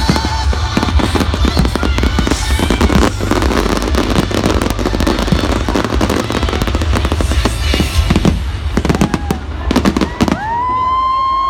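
Fireworks display finale: a dense, rapid barrage of crackles and bangs that stops about ten seconds in, followed by a sustained high whistling tone that slides up and then holds.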